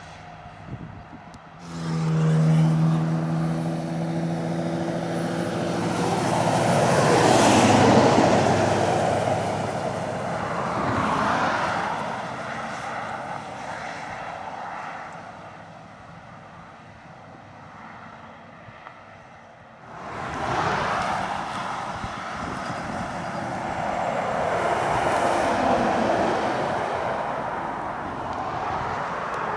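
Heavy lorries' diesel engines working hard up a long climb, passing close one after another with engine note and tyre noise swelling and fading as each goes by. The sound starts abruptly about two seconds in and again near the twenty-second mark, loudest as the first lorry passes.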